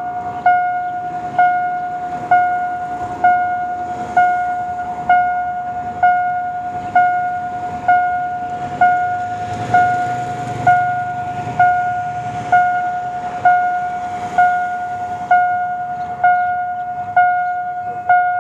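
Railway level-crossing warning bell ringing steadily at about one strike a second, each strike a single clear tone that dies away before the next. A faint low rumble swells briefly about halfway through.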